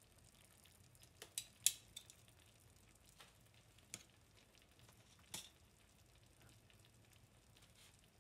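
Vegetables and spaghettini sizzling quietly in a hot pan, with scattered sharp pops: a quick cluster about a second in, then single pops every second or so.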